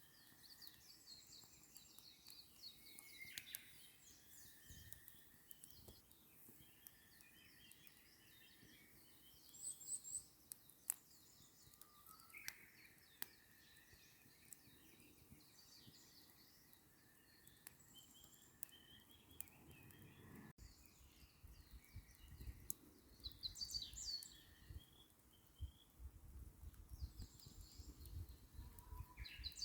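Small birds chirping and calling over faint, scattered pops and crackles of a wood campfire. About two-thirds through, a low rumble joins underneath.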